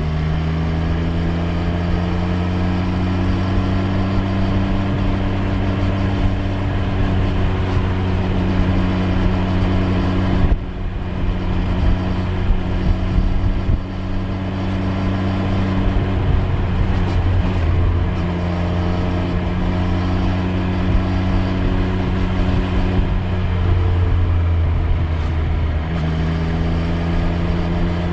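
Triumph Street Triple 765 R's inline three-cylinder engine running on the move at steady revs. About ten seconds in the sound drops off sharply and runs unevenly for a few seconds before steadying, and the engine note shifts again twice later on.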